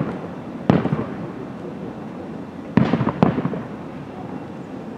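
Aerial firework shells bursting: three sharp booms, one about a second in and two close together near the three-second mark, each trailing off in a fading rumble, with lighter crackling between.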